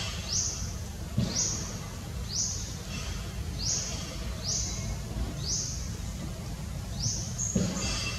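A bird giving short high chirps that rise in pitch, repeated roughly once a second, over a steady low rumble.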